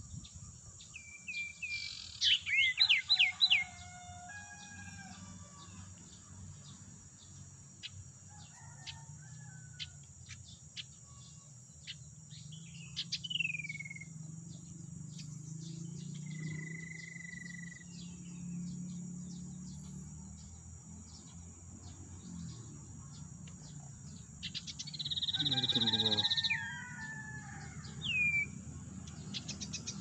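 Small songbirds calling, taken to be sirtu (common iora, cipoh). A loud rapid chattering series comes about two seconds in, then a falling whistle, a long steady whistle, and a loud harsh chatter near the end, over faint ticking.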